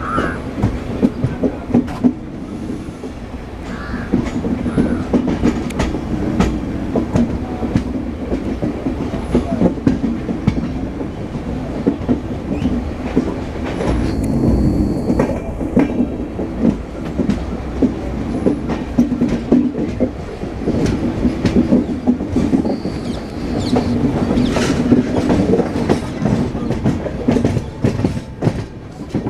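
Steady low rumble with frequent irregular clattering knocks, and a brief thin high whine about halfway through and again later.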